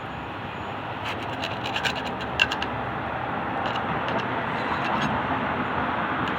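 Scratching and clicking, with a cluster of short clicks and one sharp click about two and a half seconds in, over a steady low rumble.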